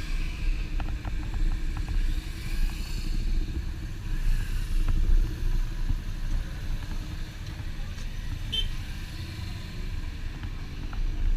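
Motorcycle riding along a highway: the engine runs steadily under heavy wind rumble on the camera microphone.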